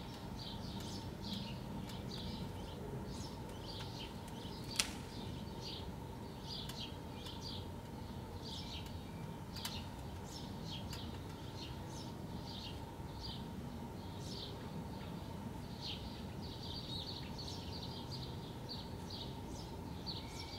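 Birds chirping, many short high calls repeating irregularly over a steady low background noise, with one sharp click about five seconds in.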